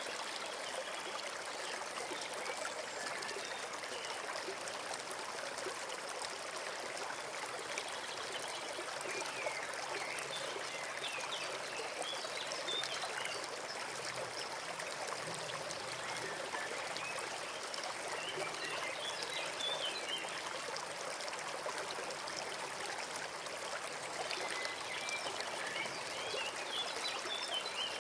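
Forest stream flowing steadily, with small birds chirping briefly a few times over the water.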